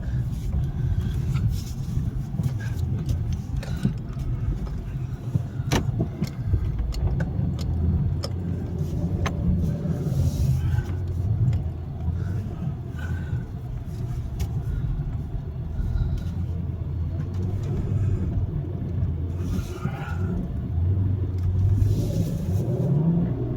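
SUV engine running under load as the vehicle pushes its way through deep snow, heard from inside the cabin, with scattered knocks and scrapes. The engine revs up a little before the end.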